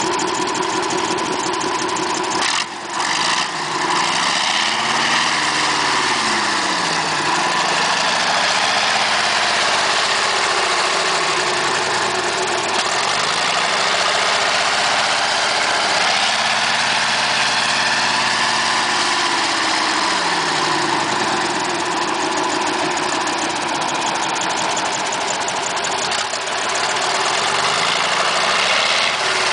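Mercedes-Benz OM403 V10 diesel engine of an O303 bus, heard through dual exhaust pipes with a bramador muffler, revved up and down repeatedly, each rev rising and falling over about three seconds, after a brief dip near the start.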